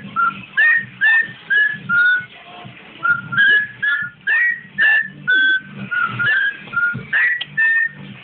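Cockatiel whistling a run of short, clear notes, about two a second, many with a quick upward slur.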